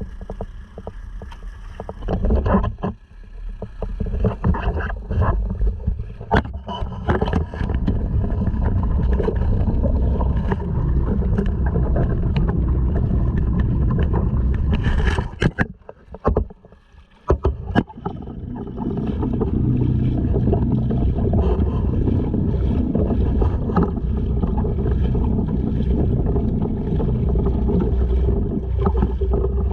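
Honda 2.3 hp four-stroke outboard running as it drives a sea kayak, with water rushing along the hull and many sharp splashes and knocks. The sound drops away briefly a little after halfway, then runs steadily to the end.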